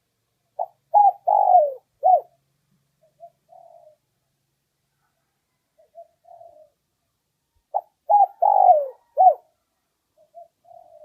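Spotted dove cooing: two song phrases of about four notes each, about seven seconds apart, each followed by a few much softer short coos.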